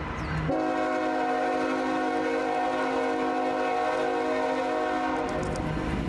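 BNSF locomotive's air horn blowing a long multi-note chord, with a brief break about half a second in, then stopping about five seconds in, leaving the low rumble of the passing train.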